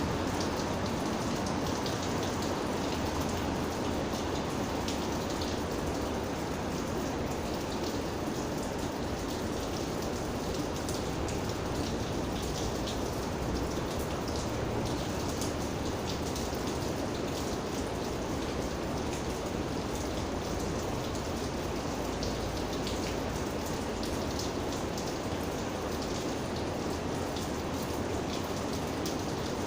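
Steady rain falling, with many small raindrop ticks over a constant hiss.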